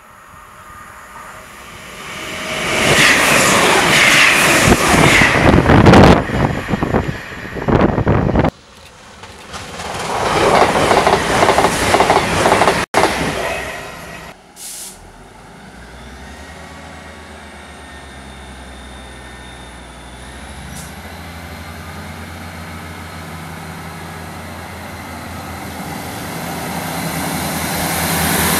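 A train passing through the station at speed, loud rushing wheel and rail noise that rises and falls twice around a sudden break. Then a ScotRail Class 158 diesel multiple unit runs slowly at the platform with a steady low diesel hum, growing louder towards the end as its coaches pass.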